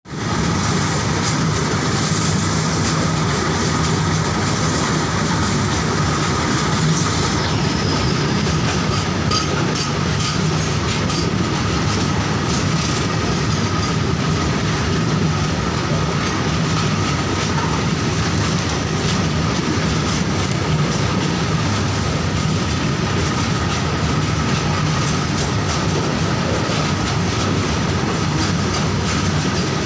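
Freight train's tarpaulin-covered wagons rolling past at close range: a steady loud rumble of steel wheels on rail with rapid clickety-clack over the rail joints and a thin steady whine.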